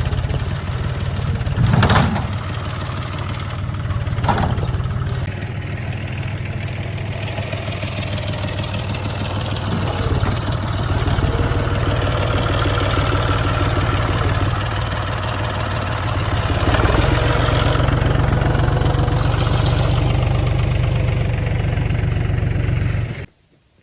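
Tractor diesel engine running steadily under load, pushing a fallen tree, with a few sharp knocks along the way.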